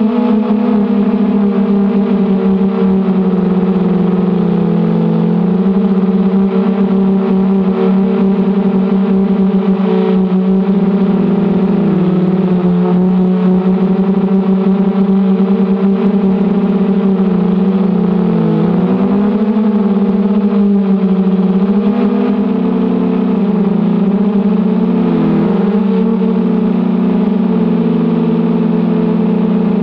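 Brushless motors and propellers of a 250-size FPV racing quadcopter with 1806 2280kv motors, running with a steady whine. The pitch wavers with throttle and dips briefly several times in the second half.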